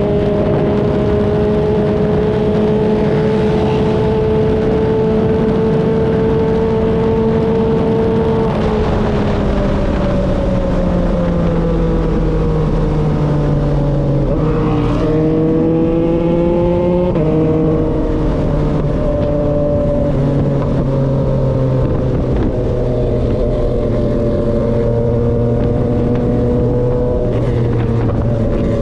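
Yamaha XSR900's three-cylinder engine running through an SC-Project CRT exhaust while riding: the pitch climbs slowly for about eight seconds, drops as the throttle eases, climbs again and falls sharply at a gear change about two-thirds of the way through, then holds steady at cruise.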